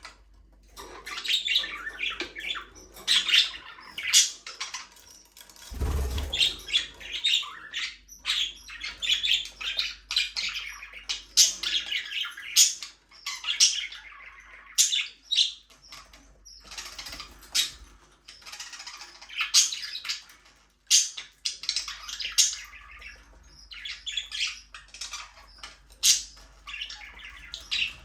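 A flock of budgerigars chattering: many short chirps, squawks and warbles overlapping without pause. There is one brief low thump about six seconds in.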